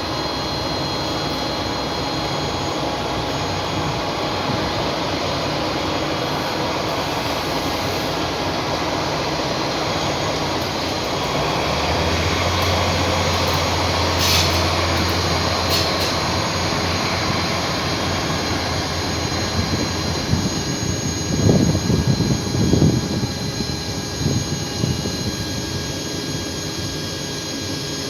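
Electric train running through a station: a steady rush of motor and blower noise with high whining tones, a deep hum joining about halfway through, then a cluster of heavy low thumps.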